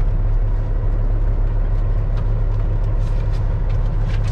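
Peterbilt semi truck's diesel engine running steadily, a low, even drone.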